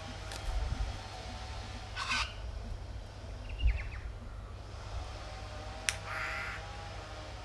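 Two short, harsh caws from a crow-like bird, about two seconds in and again about six seconds in, with a couple of sharp clicks, over a steady low rumble.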